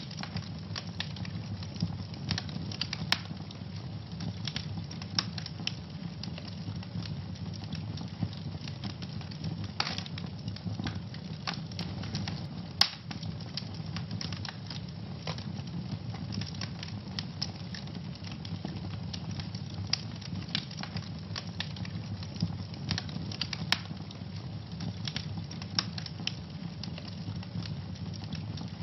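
Wood fire in a fireplace burning, with a steady low rumble and frequent irregular crackles, and a few louder pops.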